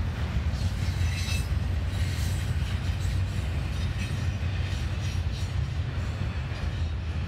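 Norfolk Southern intermodal freight train cars rolling past, a steady heavy rumble of wheels on rail with faint scattered high-pitched clicks and squeals over it.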